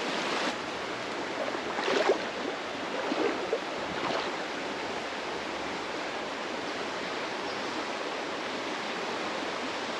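Steady rush of a creek running high with a fair bit of flow, with a few brief louder sounds about two to four seconds in.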